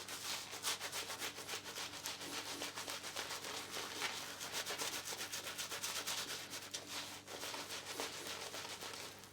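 Knothead Brushworks badger shaving brush working tallow shave-soap lather onto a stubbled face: a continuous run of quick, bristly scrubbing strokes over two days' growth. The lather is rich, not overhydrated.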